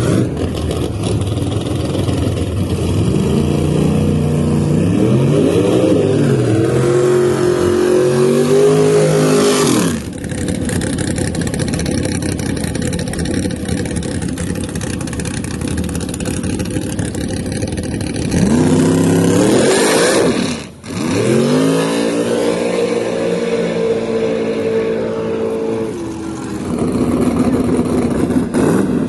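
Drag car engines accelerating hard down the strip, their pitch climbing and stepping back down at gear changes. There are two separate runs: one from about three seconds in that ends abruptly near ten seconds, and another that starts with a sharp rise around eighteen seconds.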